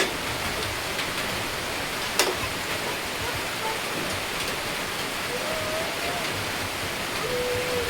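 Heavy rain pouring down in a steady, even hiss, with one sharp knock about two seconds in.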